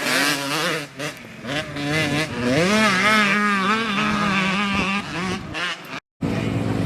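Dirt bike engines running on a race track, their pitch rising and falling as the riders work the throttle. The sound cuts out completely for a moment near the end.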